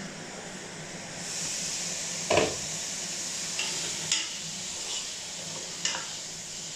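Pork and onions sizzling steadily in a pot from about a second in, while a spatula stirs them and knocks against the pot about three times, the loudest about two seconds in.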